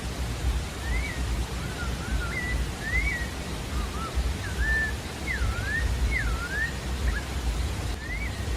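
A sabiá-da-várzea singing a phrase of short, clear whistled notes that swoop up and down, one after another, starting about a second in. Under it runs a steady hiss and low rumble.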